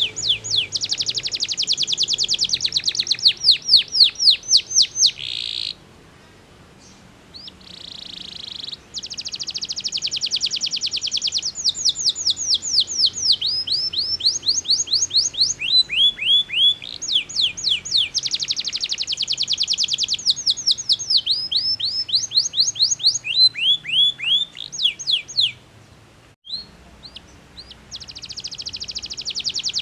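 Domestic canary singing: long phrases of fast, repeated notes that sweep downward, alternating with dense rapid trills. The song breaks off twice for a couple of seconds.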